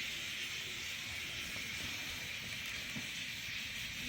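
Rain falling steadily: an even hiss that holds at one level throughout.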